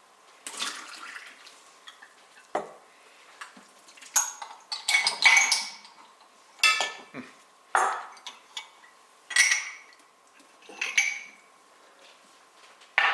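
Metal parts of a Flair Pro manual espresso press clinking and knocking as they are handled and fitted together: a series of separate sharp clinks, some ringing briefly.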